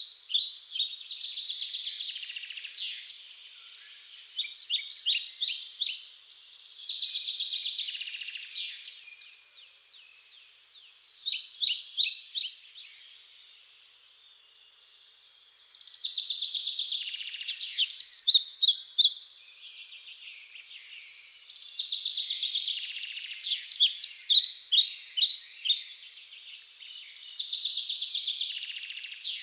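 Songbirds singing in the woods: phrases of quick, high repeated notes come every two to three seconds over a continuous chorus of fainter chirping.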